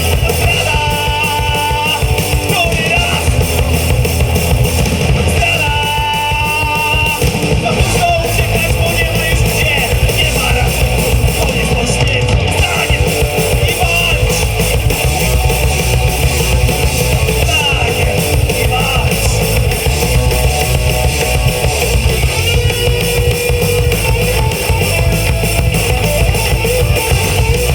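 A live rock band playing loudly and without a break: electric guitars, bass guitar and a drum kit.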